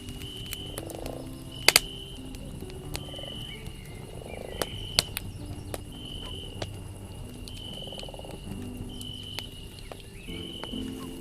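Campfire crackling, with scattered sharp pops; the loudest pop comes a couple of seconds in. Behind it are night-forest animal calls: a short high chirp repeating about once a second, and lower croaking calls.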